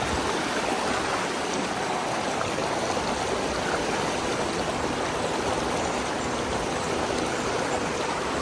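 A shallow stream rushing and burbling steadily over rocks.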